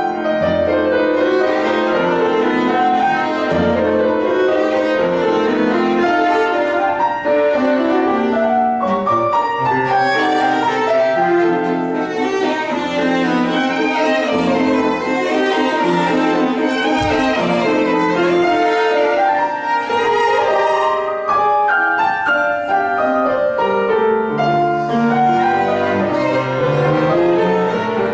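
Piano quartet of violin, viola, cello and piano playing classical chamber music, with sustained bowed string lines over the piano.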